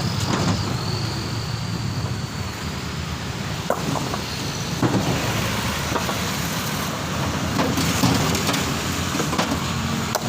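Steady road traffic and motor-vehicle engine noise, with a few short sharp knocks.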